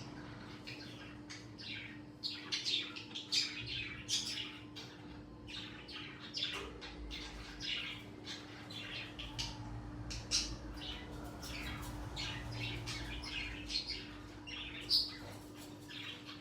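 Small birds chirping and squawking in quick, overlapping short calls, over a steady low hum.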